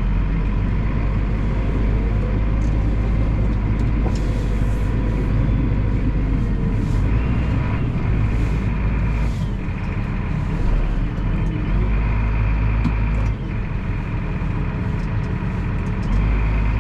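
Farm tractor engine running steadily, a continuous low drone.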